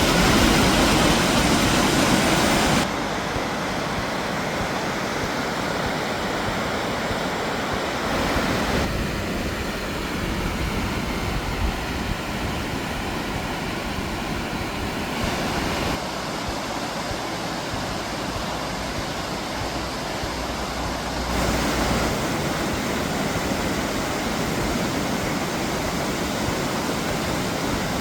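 River water rushing through a rocky gorge, a steady noise whose level and tone change suddenly several times.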